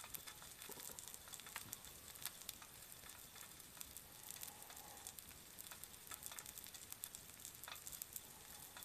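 Faint, steady sizzling of nori-wrapped chicken karaage heating on an electric hot plate, with scattered little crackles and pops.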